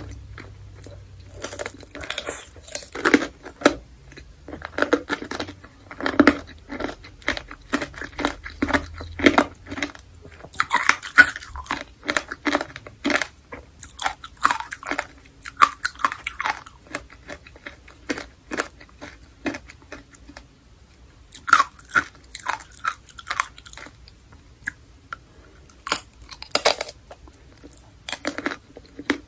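Biting and chewing of candied fruit, a run of irregular sharp crunches with short pauses between mouthfuls.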